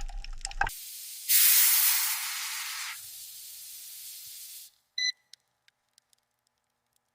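A low rumble cuts off under a second in. Then a loud hiss starts, eases to a quieter hiss after a couple of seconds and stops abruptly. A single short high beep and a few faint ticks follow.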